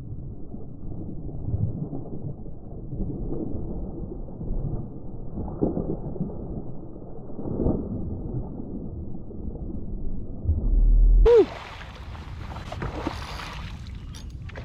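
Muffled water sloshing and rumbling, with nothing high-pitched in it. About eleven seconds in comes a loud low thump, after which the sound opens up with clearer splashing and water noise.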